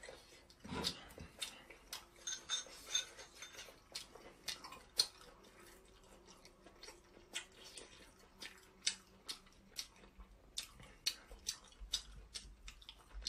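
Close-up eating sounds of a person chewing sea snail meat: a steady run of sharp, wet clicks and smacks, with a soft thump about a second in.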